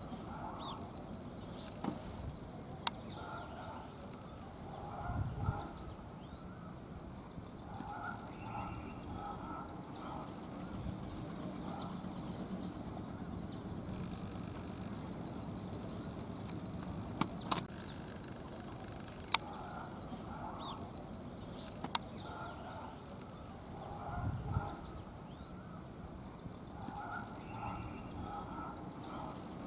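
Outdoor natural ambience: a steady high-pitched insect trill, typical of a cricket, with recurring groups of short chirping calls lower down. A few sharp clicks and two brief low rumbles occur.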